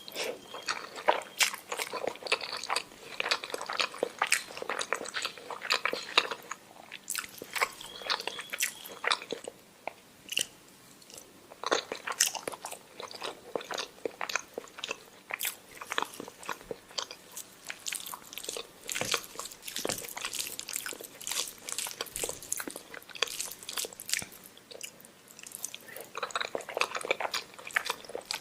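Close-up mouth sounds of a person eating omelette with rice: an irregular run of wet smacks, clicks and chewing, with a couple of brief pauses.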